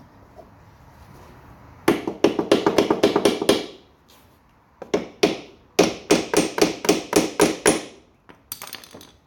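Hammer striking a stuck metal part on a lawn mower to knock it loose. Quick blows at about five a second in three bursts, with a brighter, higher clang near the end.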